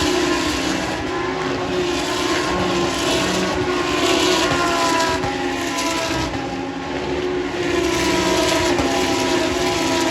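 Race car engines at high revs, several cars passing one after another, each engine note dropping in pitch as it goes by.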